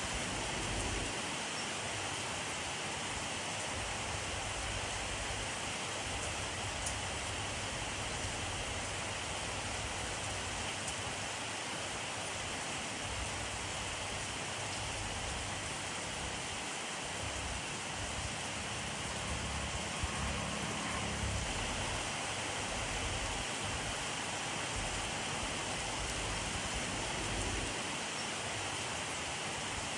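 Steady rainfall: an even hiss of rain with a few faint drop ticks, and a brief low rumble near the middle.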